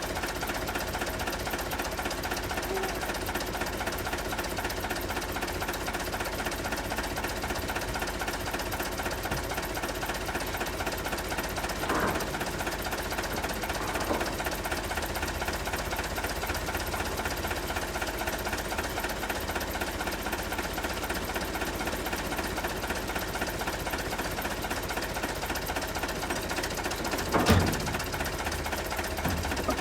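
Tractor diesel engine idling with a steady, fast knocking clatter. A few short, louder sounds cut through it: two about halfway and a stronger one near the end.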